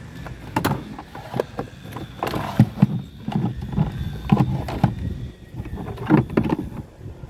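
Irregular knocks and clanks of hand work on a car during engine removal, a dozen or so sharp strikes over a low steady hum.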